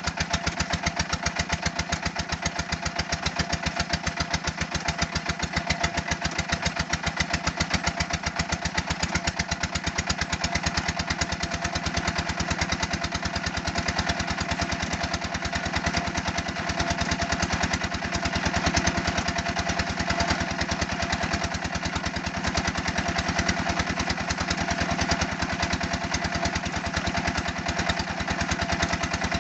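Red-brick press machine running steadily, its engine giving a rapid, even beat with a steady hum.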